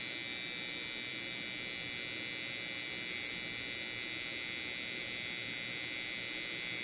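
Tattoo machine running steadily, a constant high-pitched buzz.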